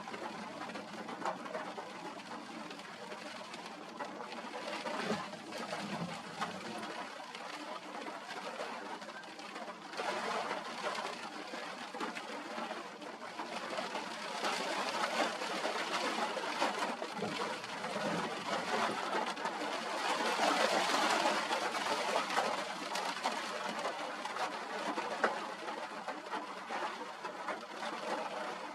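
Steady rain and wind noise that swells past the middle, with a bird's low cooing a few times underneath.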